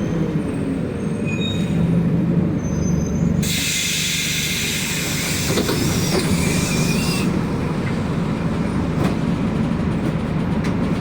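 City bus engine and road noise running steadily. A loud hiss of compressed air from the bus's pneumatic system starts about three seconds in and cuts off about four seconds later. A few faint high squeals are heard in the first seconds.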